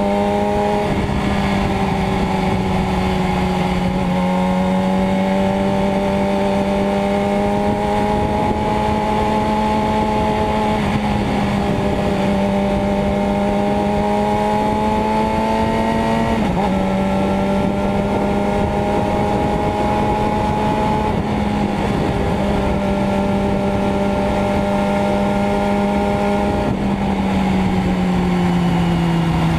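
Motorcycle engine running under way, its pitch climbing slowly and dropping back in steps several times, as at gear changes.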